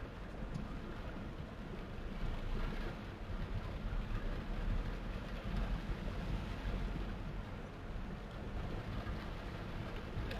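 Torrential rain falling: a steady rushing noise with a low rumble underneath.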